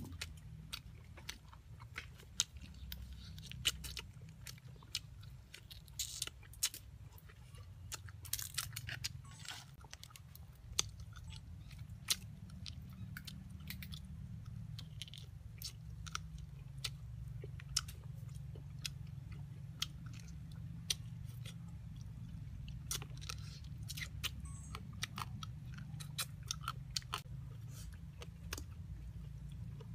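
A man chewing and gnawing cooked snake meat off the bone, with many short, irregular crunching clicks.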